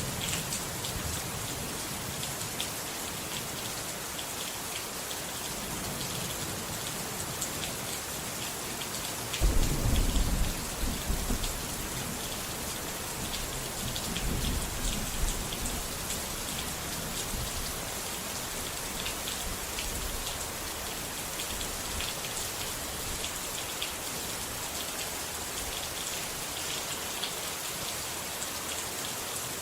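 Steady heavy rain falling on a surface, with low rolls of thunder; the loudest roll comes about ten seconds in and rumbles for a couple of seconds, with fainter ones later.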